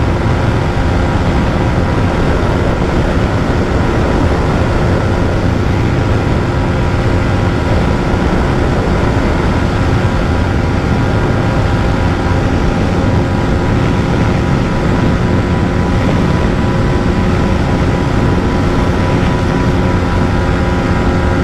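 Yamaha MT-15's 155 cc single-cylinder engine running flat out at a steady, unchanging high rpm in sixth gear, holding about 138 km/h near its top speed, under a loud rush of wind.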